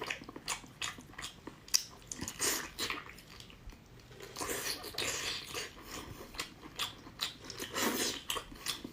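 Close-miked eating of sea snail meat: chewing and biting, with irregular short mouth clicks and smacks.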